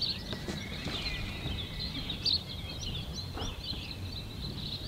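Small birds chirping and singing with many short, quick notes, over a low, steady rumble of outdoor background noise.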